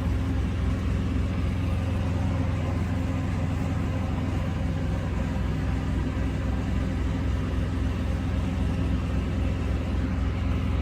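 Freightliner Classic truck's diesel engine idling steadily, a constant low hum.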